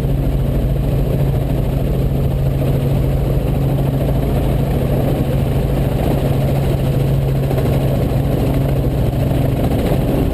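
Robinson R44 Raven helicopter heard from inside the cabin: the steady, loud drone of its six-cylinder Lycoming piston engine and rotors, with a constant low hum.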